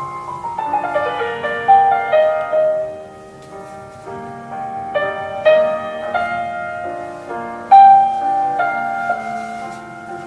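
Solo piano playing a slow, tender classical melody, with a quick descending run of notes near the start and sustained notes ringing over low accompanying chords.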